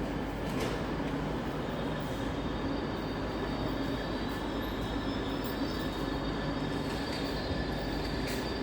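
GBRF Class 66 diesel locomotive and its train of coal hoppers passing slowly through the station, a steady rumble of engine and wheels. A faint high squeal comes in about halfway through.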